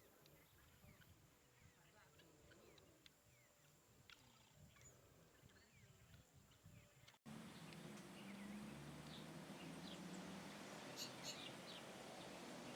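Faint wild birds chirping and calling: scattered short, high chirps over a quiet background. About seven seconds in the sound cuts sharply and comes back with louder hiss and a low hum under more chirps.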